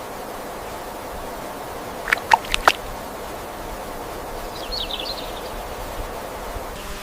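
Outdoor natural ambience with a steady hiss and small birds calling: four quick, sharp calls about two seconds in, and a brief high twitter about five seconds in.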